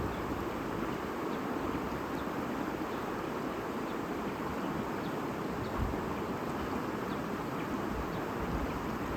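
A stream babbling steadily, with faint short high chirps.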